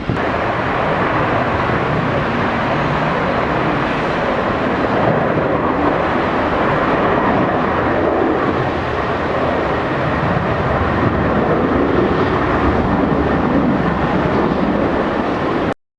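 Jet airliner engine noise, a loud steady rushing drone that holds level and cuts off abruptly near the end.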